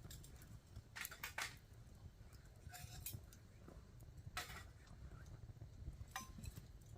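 A few sharp, irregular clicks and light clinks, a cluster of them about a second in and single ones later, over a faint low rumble.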